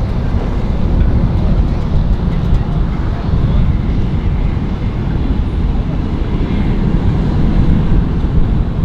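Wind buffeting the microphone: a loud, steady, uneven low rumble.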